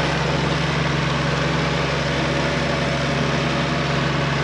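International Harvester 424 tractor engine running at a steady speed.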